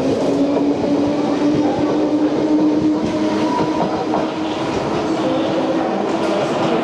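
London Underground D78 Stock train pulling out of a platform, its wheels clattering over the rails under a steady electric motor whine that rises slowly in pitch as it gathers speed.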